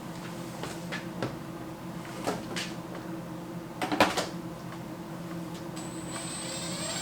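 A few scattered light knocks and clicks from lumber and tools being handled during wood framing, the loudest about four seconds in, over a steady low hum. Music comes in near the end.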